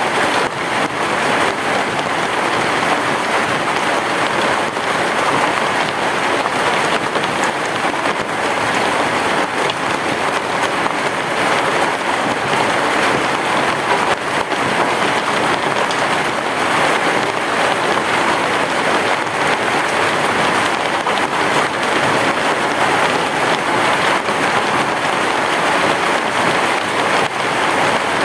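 Heavy rain falling steadily on a roof, a dense even hiss of drops.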